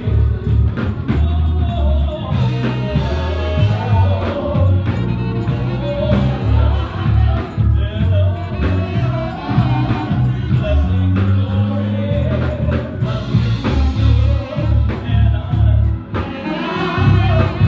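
Live gospel music: singing voices over a band with a strong bass line and a beat of drum and tambourine strikes.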